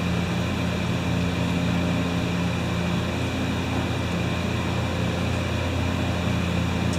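Steady background machine hum with an even hiss, unchanging throughout, like a fan or heater running in a small shop room.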